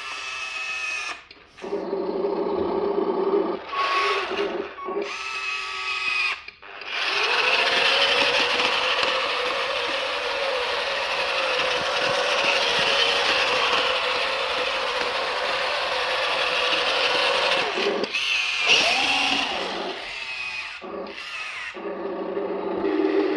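Electric drive motor and plastic gearbox of a 1:20 RC dump truck model whirring steadily for about ten seconds, with stretches of its built-in electronic engine sound effect, short blocks of steady tones from a small speaker, before and after.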